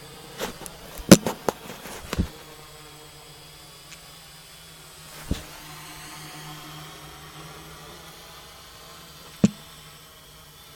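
Quadcopter motors and propellers humming steadily as it hovers in GPS position hold. Several sharp knocks in the first two seconds, the loudest of them about a second in, and single knocks about five and nine and a half seconds in.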